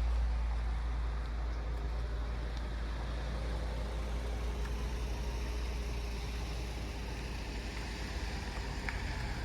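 Steady low rumble under a light haze of outdoor background noise, slowly easing off.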